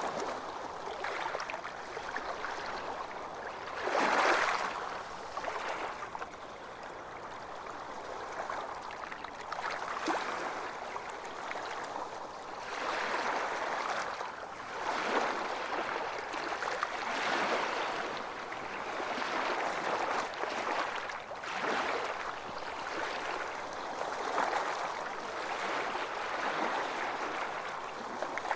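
Small waves washing and breaking on a beach, swelling and fading every few seconds, with one louder wave about four seconds in.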